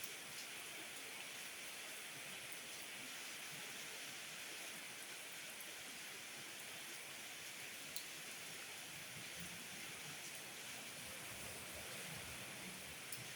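Steady rain falling, an even hiss, with a few single drops ticking sharply close by, once about eight seconds in and again near the end.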